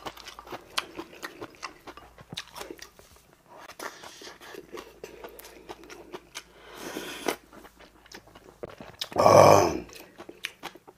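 Close-up chewing and crunching of food: many small crisp bites and wet mouth clicks as a man eats kimchi and fresh lettuce geotjeori. About nine seconds in, a brief loud sound from his throat stands out above the chewing.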